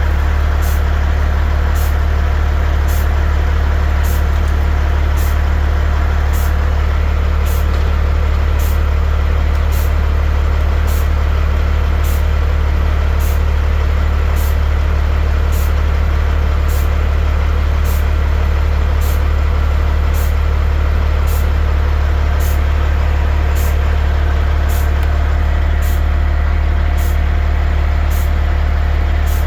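Heavy dump truck's diesel engine running with a steady low drone, with faint sharp ticking repeating about every 0.7 seconds.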